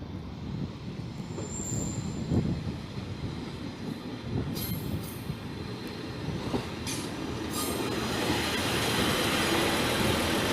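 A train approaching through the station, its rumble growing steadily louder into a loud rush. A brief high squeal sounds about two seconds in, and a few short high screeches follow partway through.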